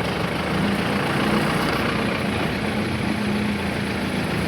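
Vehicle engine running steadily with an even low hum and road noise.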